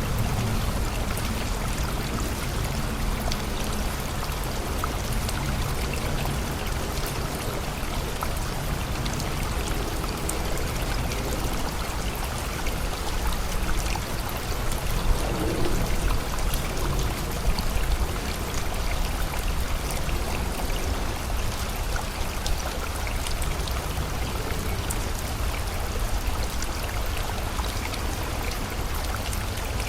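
Steady rain falling together with a flowing river, heard as an even, continuous wash of water with many small drop ticks scattered through it.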